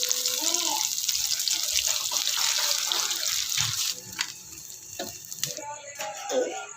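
Steady rush of water that cuts off suddenly about four seconds in, followed by a few clicks and knocks.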